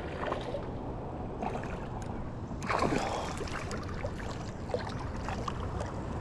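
River water sloshing around a wading angler while a hooked bass is fought in, with a louder burst of splashing about three seconds in.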